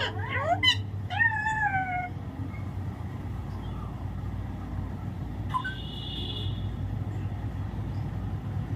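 Alexandrine parakeet mimicking a cat's meow: quick rising calls, then a drawn-out call that falls in pitch, all within the first two seconds. A little past halfway comes a short, high, steady whistle. A low steady hum runs underneath.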